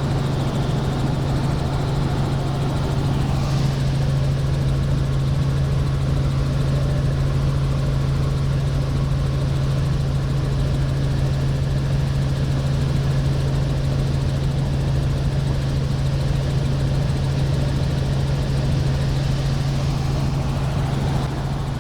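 Helicopter in flight, heard from inside the cabin: a steady low drone from the engine and rotors.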